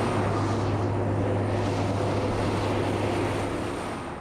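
Heavy road train's engine running with a steady low drone and road noise, dropping away near the end.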